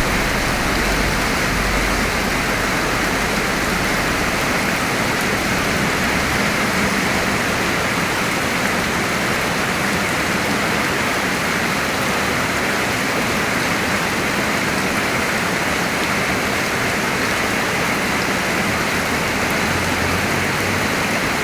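Steady heavy rain falling and pattering on surfaces, an even rushing hiss with no letup.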